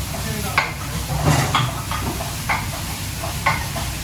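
Food sizzling in a pan while being stirred, with a utensil striking the pan about once a second over a steady low hum.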